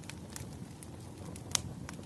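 Firewood burning: scattered sharp crackles and pops over a low steady rumble of the fire, with one louder pop about one and a half seconds in.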